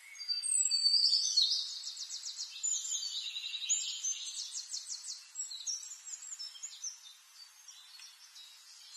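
Small songbirds chirping and singing, with quick high trills, loudest in the first couple of seconds and thinning out towards the end.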